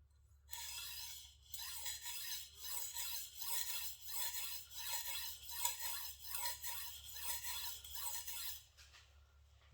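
Shigeki Tanaka gyuto's steel blade stroked back and forth across a whetstone, a run of rhythmic scraping strokes about two a second that starts shortly in and stops about a second before the end. The edge is being worked on one side to raise a burr.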